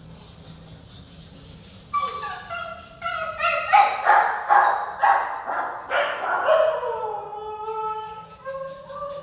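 Several shelter dogs barking and howling together, starting about two seconds in, with long falling howls near the end.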